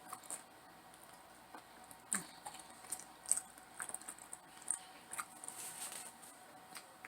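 A person chewing crispy battered fried chicken close to the microphone: irregular small crunches and wet mouth clicks.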